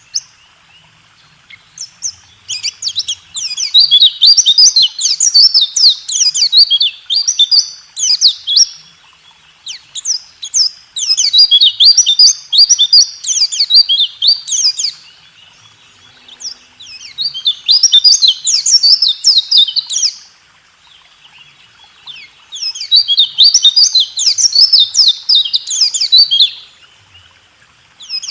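Pleci (white-eye) singing its fast rolling 'roll tembak' song: long runs of rapid, high chirping notes in phrases of two to six seconds, separated by pauses of a second or two.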